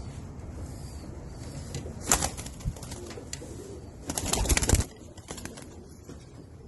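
Domestic pigeons in a loft, with soft cooing and two bursts of wing flapping: a brief one about two seconds in and a louder, longer flurry about four seconds in.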